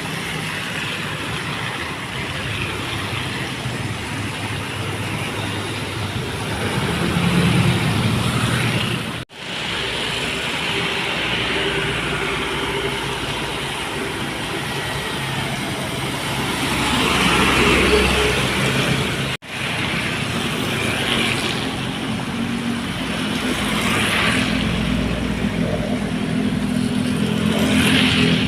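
Loaded dump trucks passing on a wet road: diesel engine drone under steady tyre noise, with a few brief swells of hiss as wheels go by. The sound cuts out sharply twice, once about a third of the way in and once about two thirds in.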